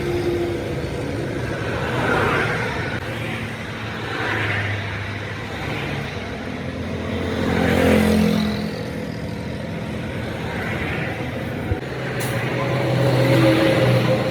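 Road traffic: motor vehicles passing one after another, each swelling and fading, over a low engine hum. A single sharp click comes near the end.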